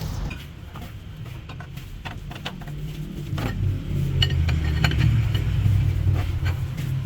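A low, steady engine or motor hum, louder in the second half, with scattered light metallic clinks of tools and parts.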